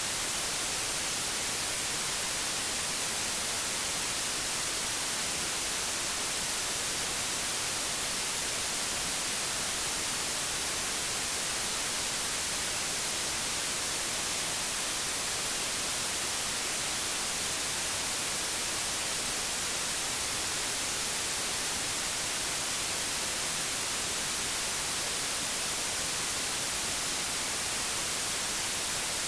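Steady hiss of analog television static, even and unchanging, weighted toward the high end.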